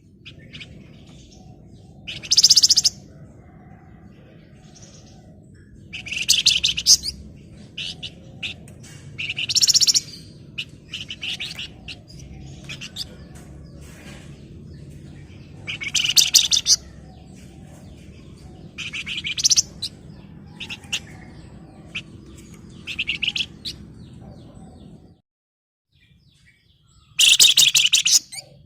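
Flamboyan (wergan Jawa) songbird singing in short, dense, rapid chattering bursts about every three to four seconds, with softer single chirps between. This is a male in breeding condition singing hard to call out a rival.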